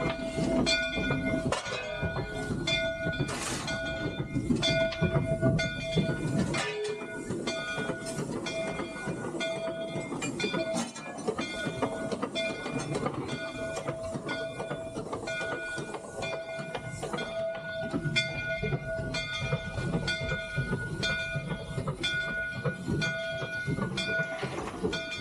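Three-truck Shay geared steam locomotive under way, heard from the cab: steady mechanical clatter with frequent short knocks, and a ringing tone that repeats about once a second.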